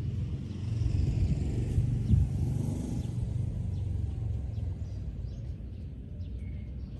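Wind buffeting the microphone as a steady low rumble, gusting stronger about one to three seconds in, with faint bird chirps above it.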